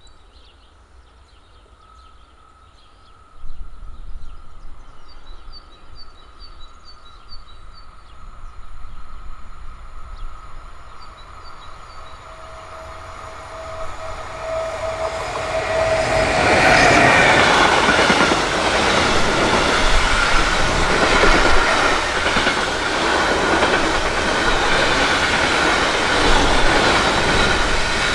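A train approaching along the line, a steady whine growing louder as it nears, then passing close by with loud wheel clatter over the track for the second half. Birds chirp during the first few seconds.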